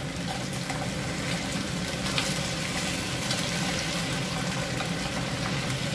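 Chicken wings sizzling steadily as they pan-fry in oil in a nonstick frying pan.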